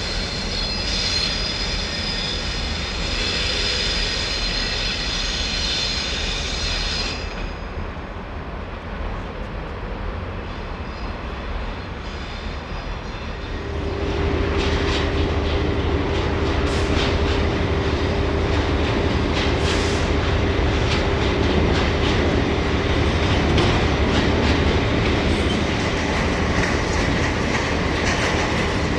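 Train passing on the line: a high whine for the first several seconds, then about halfway through a louder steady hum with the clickety-clack of wheels over rail joints.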